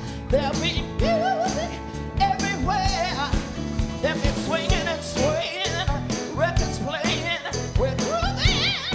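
Live band music with singers, the voices wavering in vibrato over a steady drum beat.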